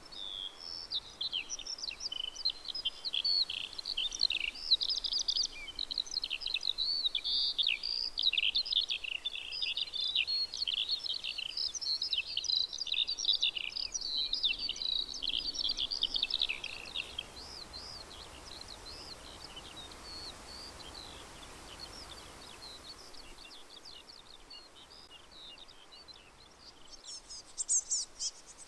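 Songbirds singing together in a dense chorus of quick chirps and trills, thinning after about seventeen seconds to fainter, scattered calls. Near the end a cricket starts up with a high, rapid chirping.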